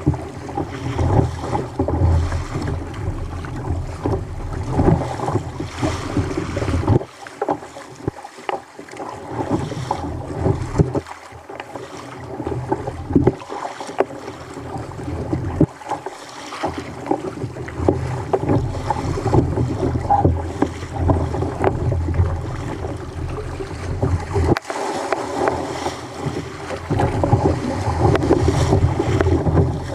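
Sea water sloshing and splashing around a fishing kayak, with gusts of wind on the microphone that come and go.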